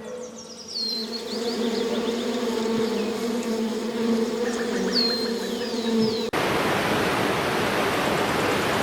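A bee buzzing steadily, with a few high bird chirps over it. About six seconds in the buzz cuts off abruptly and a steady rushing noise takes over.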